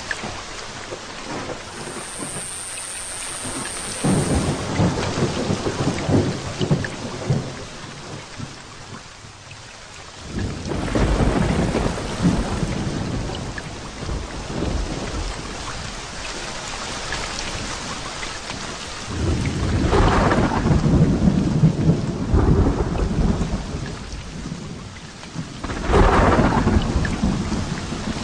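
Heavy rain falling steadily through a thunderstorm, with four long rolls of thunder: about four seconds in, about ten seconds in, at about nineteen seconds, and again near the end.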